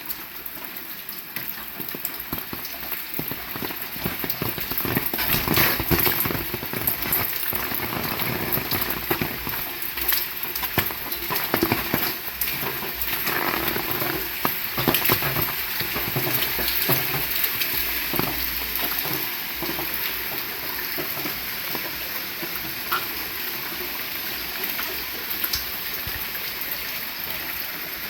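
Heavy rain falling, a dense pattering of drops hitting surfaces. It grows louder over the first few seconds and eases slightly in the second half.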